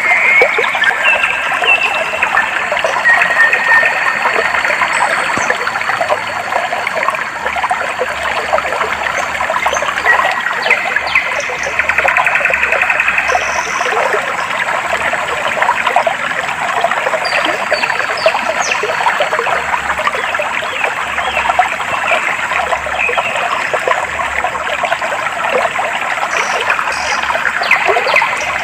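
Clear stream water flowing and babbling steadily over stones, with a few short bird calls mostly in the first few seconds.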